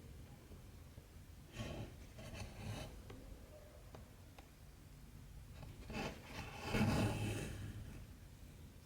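Cotton embroidery thread and needle drawn through cross-stitch fabric, making two soft rubbing rasps, the second louder, near the end.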